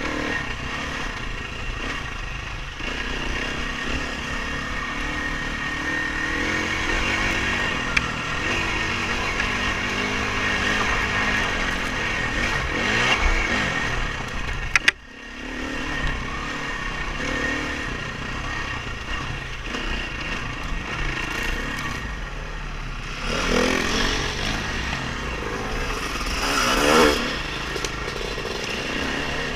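Dirt bike engine running, its revs rising and falling with the throttle. About halfway through there are two sharp knocks, then the sound drops out for a moment before the engine comes back up.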